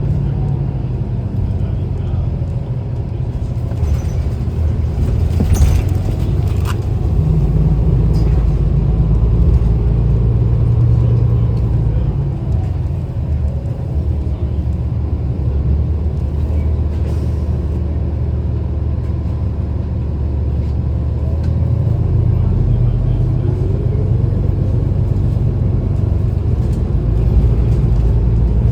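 City transit bus in motion, heard from inside: steady low engine and road rumble, the engine note shifting as the bus speeds up and slows, rising once near the end. A few sharp rattles come about five to seven seconds in.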